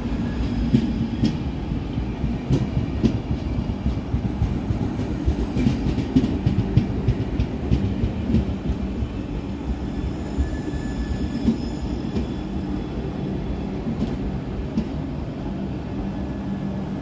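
Express train's coaches rolling past on the track: a steady low rumble of wheels on rail with irregular sharp clicks and a faint high squeal now and then.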